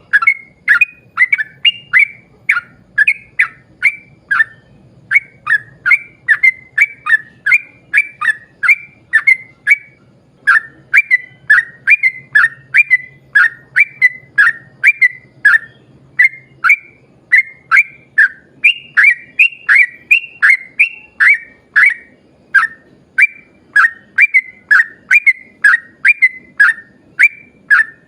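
Yellow-vented bulbul (trucuk) singing a long unbroken run of short, loud, bubbly whistled notes, about two to three a second.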